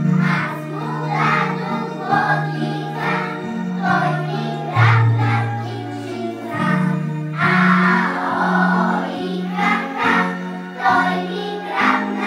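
A Bulgarian folk song with a choir singing over a stepping bass line, and percussion striking roughly once a second.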